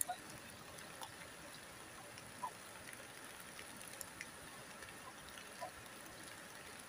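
Steady hiss of flowing river water, with a few short, separate animal calls scattered through it.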